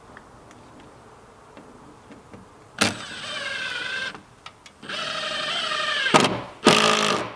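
Small electric motor of a handheld power tool run three times in short bursts, about a second or more each, its whine sagging in pitch as it takes load.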